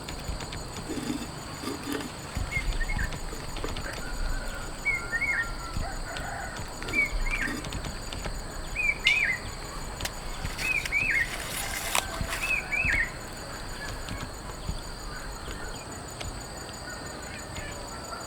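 A bird calling repeatedly in short, quick two-note chirps, about one every two seconds, over a steady hiss.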